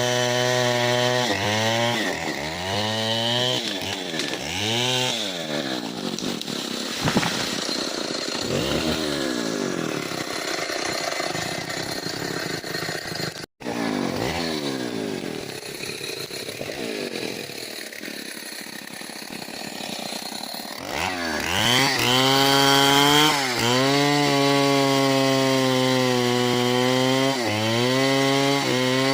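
Stihl 070 two-stroke chainsaw cutting into a large trunk, its engine pitch repeatedly dipping and recovering as the chain loads up in the wood. The sound cuts out for an instant about halfway, then the saw runs at a steady high pitch near the end.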